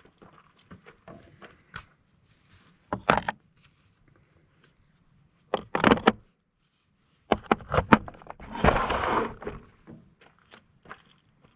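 Scattered knocks, clicks and clatter of metal parts and tools being handled while an air-conditioning unit is taken apart for scrap, with a longer scraping rustle about nine seconds in.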